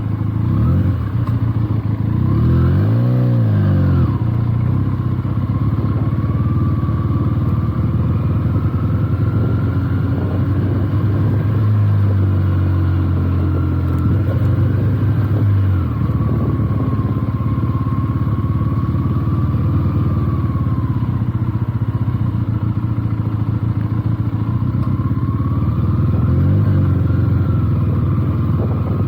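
Benelli TNT 300's parallel-twin engine running under way. The revs rise and fall about three seconds in, hold higher for a few seconds midway before dropping, and rise and fall briefly again near the end.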